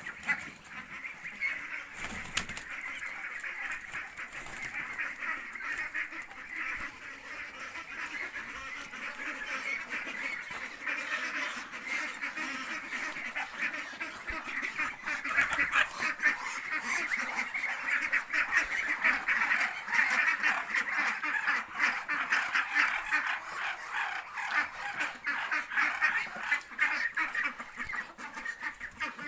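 A large flock of farmyard poultry calling and chattering together without a break as they crowd onto their feed, the din growing louder about halfway through.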